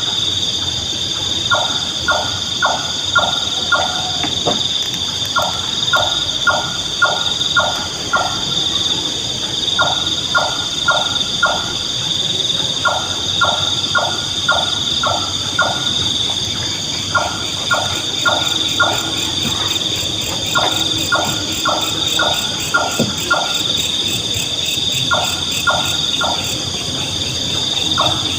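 Nightjar calling: short series of five or six quick, evenly spaced notes, repeated every few seconds, over a steady high-pitched insect chorus.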